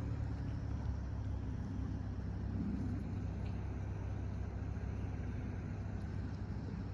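Low steady hum of an idling car engine.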